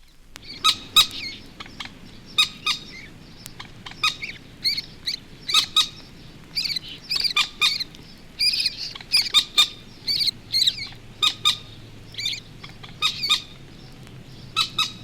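Adult moorhen giving its alarm, many short, sharp calls in irregular clusters, while a young moorhen calls as it makes for shelter.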